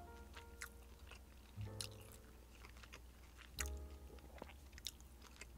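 A man chewing a mouthful of fried pork cutlet close to the microphone, a scatter of small wet mouth clicks, over quiet background music with a few held notes.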